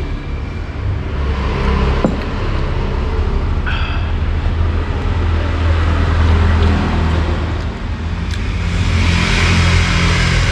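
Road traffic passing close by: a steady low rumble, with a vehicle swelling louder near the end, and a couple of faint clicks.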